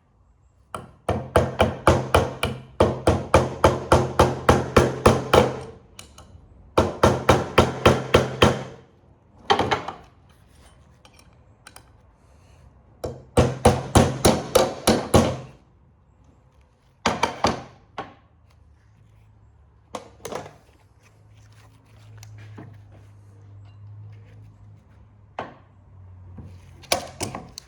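Power impact driver hammering at screws in three runs of rapid strikes, each a few seconds long, over a low motor hum. Several short bursts and a stretch of softer running follow.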